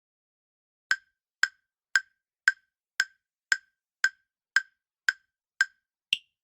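Countdown-timer tick sound effect: a run of sharp, identical ticks at about two a second, ending with a final, higher-pitched tick.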